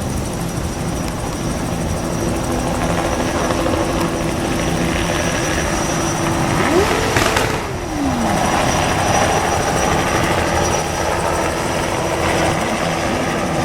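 Motorcycle engines running steadily in a crowd of bikes. About seven seconds in, one engine revs up, holds briefly, then falls back.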